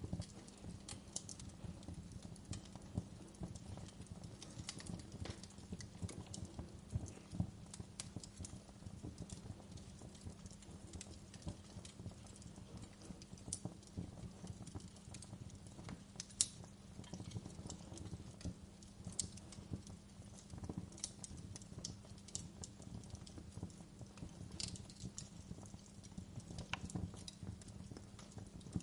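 Wood fire burning in a fireplace: irregular sharp crackles and pops over a low, steady rumble of the flames, with a louder pop about 7 seconds in and another about 16 seconds in.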